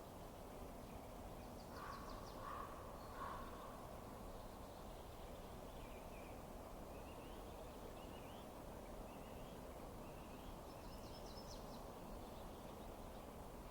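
Birds calling over a steady low hiss: three short harsh calls about two seconds in, then a string of short rising chirps, with a brief rapid high trill early on and another near the end.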